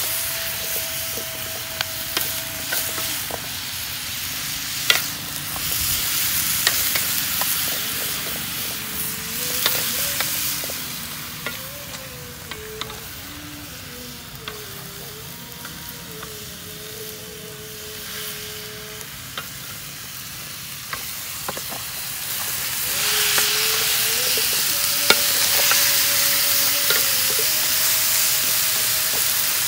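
Oil palm heart and minced pork frying in a steel wok: a steady sizzle, with the wooden spatula scraping and clicking against the pan as it is stirred. The sizzle drops back in the middle and is louder again for the last several seconds.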